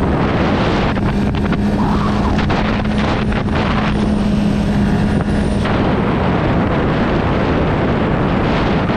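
Honda CB650R inline-four with an Akrapovic exhaust, running at a steady cruise with an even, sustained engine note. Wind buffets the microphone.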